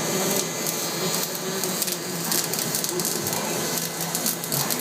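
Cloos welding arc crackling and sizzling steadily, a dense run of rapid, irregular clicks.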